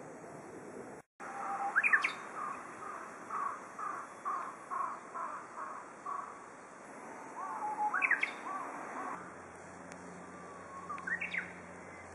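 Japanese bush warbler (uguisu) singing clear whistled phrases. One phrase ends in a rising flourish and runs into a series of about eight repeated notes at roughly two a second, and two more songs follow, each ending in a sharp upward sweep.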